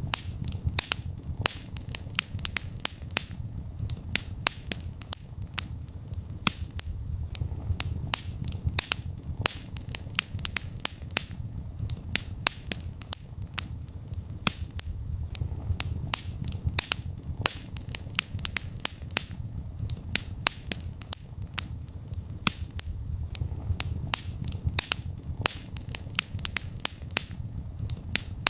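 Wood fire burning in a fireplace: frequent sharp crackles and pops, several a second at irregular intervals, over a low, steady rumble of the flames.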